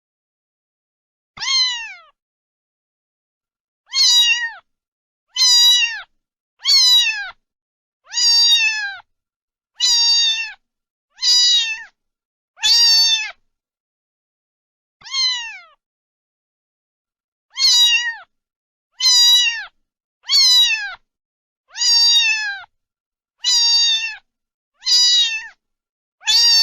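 A cat meowing over and over, about sixteen short meows each falling in pitch at its end, with silence between them.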